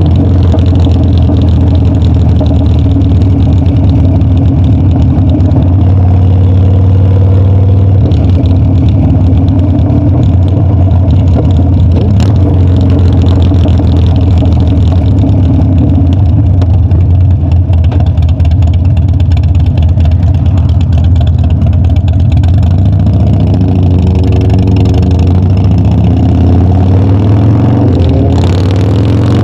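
Harley-Davidson Dyna's V-twin engine running steadily under way while riding. Its pitch shifts slightly a few times with the throttle, and it dips briefly just before the end.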